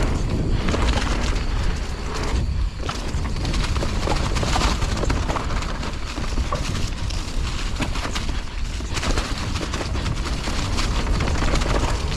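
Mountain bike descending a trail at speed: wind buffets the microphone with a heavy rumble, while the tyres on dirt and rocks and the chain and frame rattling over bumps make constant clattering.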